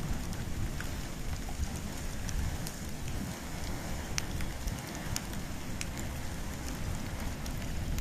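Wood and bamboo fire burning: a steady low rumble of flames with scattered sharp crackles and pops.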